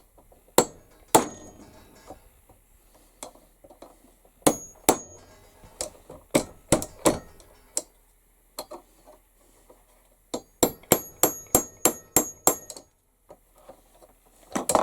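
Hammer peening a rivet over on a metal block to round its head: a scattered run of sharp metallic strikes, then a quick burst of about nine lighter, ringing taps about two-thirds of the way through.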